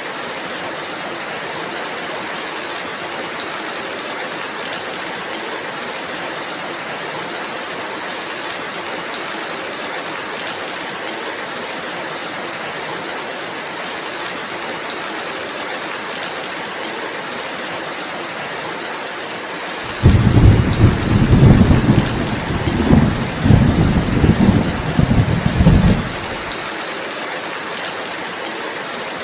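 Steady rainfall, an even hiss, with a loud low roll of thunder that starts suddenly about two-thirds of the way in, rumbles for about six seconds and stops abruptly.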